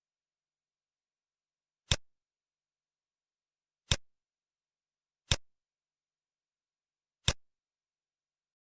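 Four single sharp clicks, about one and a half to two seconds apart, with dead silence between: computer mouse clicks selecting words in an on-screen exercise.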